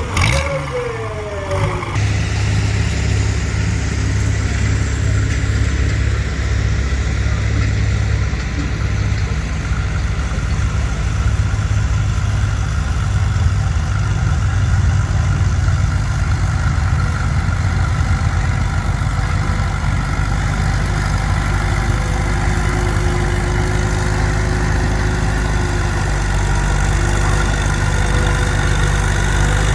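Farm tractor engine running loud and steady, coming up strongly about two seconds in.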